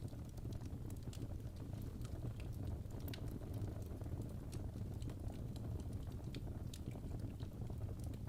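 Fireplace sound: a steady low rumble with small, irregular crackles and clicks scattered through it.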